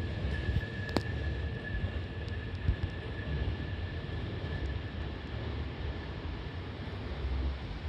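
Hankyu 9000 series electric train running out of the station, with a steady low rolling rumble and a steady high whine that fades out near the end, plus a few light clicks.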